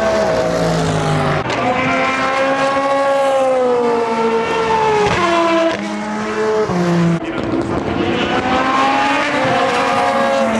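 Endurance race cars passing on track at speed, several engine notes overlapping and sliding in pitch as they come and go. The loudness drops suddenly twice, about six and seven seconds in.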